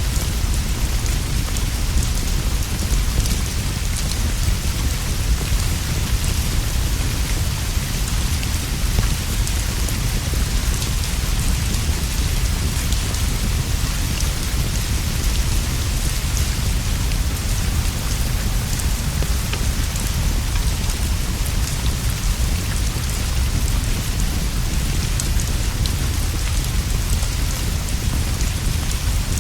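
Steady rainfall, an even hiss of drops with many fine scattered ticks, over a constant deep low rumble.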